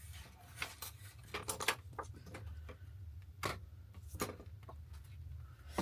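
Irregular light taps and clicks of painting tools on paper and palette, some spaced out and a few in quick clusters, over a low steady hum.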